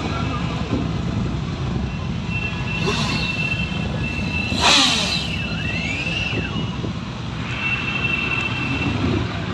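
Steady low rumble of outdoor vehicle noise, with a thin high whine held for a few seconds and a brief rushing whoosh with a falling sweep a little under five seconds in.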